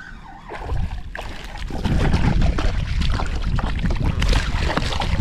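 Water splashing and knocking around a kayak, with wind rumbling on the microphone; it grows much louder about two seconds in.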